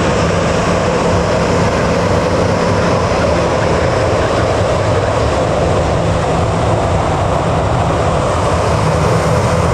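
Jet airliner engines running, a loud steady noise with a faint steady tone in it that does not rise or fall.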